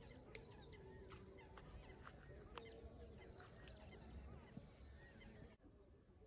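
Faint birds chirping: many short, quick chirps with two sharp clicks and a steady high whine underneath. All of it drops away suddenly near the end.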